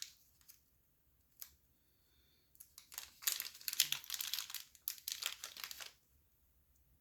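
Spare watch bracelet clasp being handled and tried: a light click about one and a half seconds in, then about three seconds of dense rustling and crinkling.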